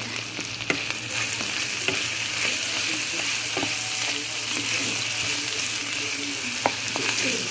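Chicken, grated carrot and diced vegetables sizzling in oil in a frying pan as a wooden spatula stirs them, the sizzle growing a little louder about a second in. A few sharp knocks of the spatula against the pan.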